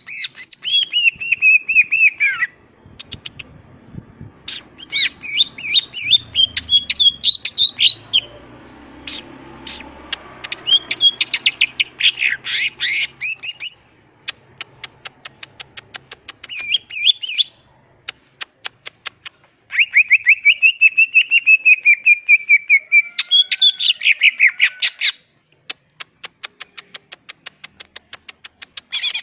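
Greater green leafbird (cucak ijo) singing: bursts of rapid chattering trills, whistled glides and sharp repeated notes, broken by short pauses. In places the song runs into long strings of quick, evenly spaced high ticks.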